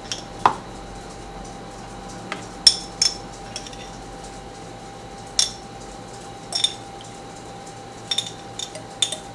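Metal utensil clinking against dishes in irregular, scattered sharp clinks, about a dozen over several seconds, as sun-dried tomatoes are scooped out for a stuffing mix. A faint steady hum runs underneath.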